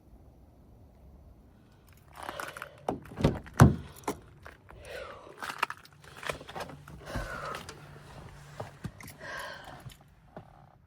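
Keys jangling, with irregular knocks, thuds and rustling of gear being handled. It starts about two seconds in, and the loudest thud comes a little after.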